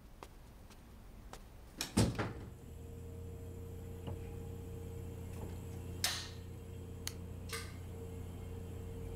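A door shutting with a sharp knock about two seconds in. A steady low hum follows, with a few faint clicks and a sharper click later on.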